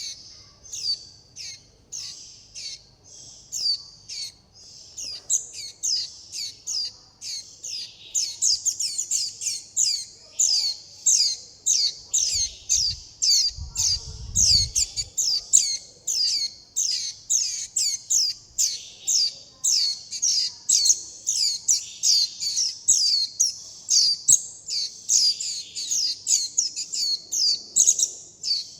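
Young white-eye chicks giving rapid, high, down-slurred begging and contact calls, about two to three a second, growing louder and denser about eight seconds in.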